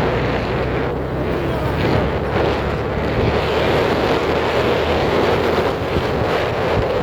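Wind rushing over the microphone of a moving motorcycle, with the engine running underneath. The wind sets in suddenly and stays loud and steady.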